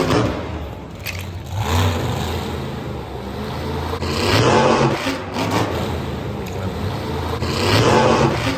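Engine revving, rising and falling in three swells over a steady low running sound.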